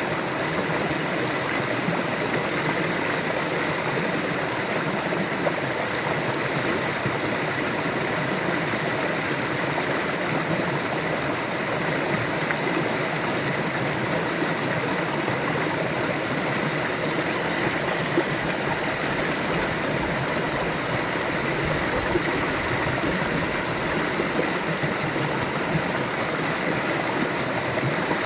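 River water flowing over rocks: a steady, even rushing and gurgling that holds at one level throughout.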